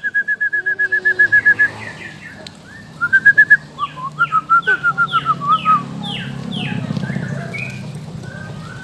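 A young murai songbird singing fast runs of repeated whistled notes, in bursts over the first six seconds. A low steady hum follows in the last few seconds.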